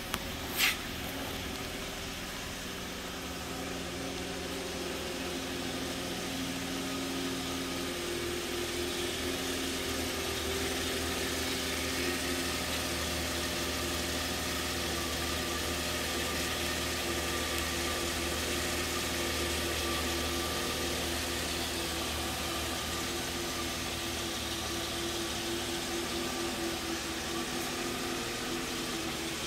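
2013 Hyundai Genesis 3.8-litre GDI V6 idling steadily, growing a little louder over the first several seconds as the open engine bay is approached. A short click sounds about a second in.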